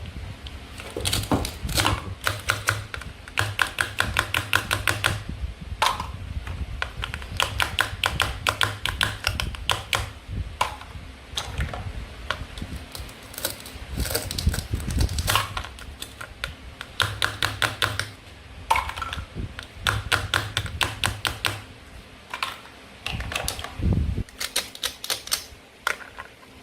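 Toy fruit and vegetables being cut apart with a toy knife: repeated runs of rapid clicking or crackling, each lasting a second or two, with short pauses between.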